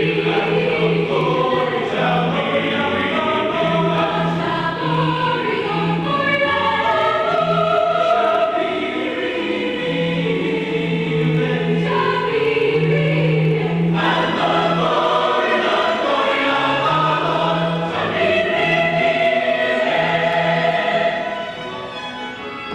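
Choir singing with accompaniment, many voices moving in a sustained choral piece. It softens about 21 seconds in.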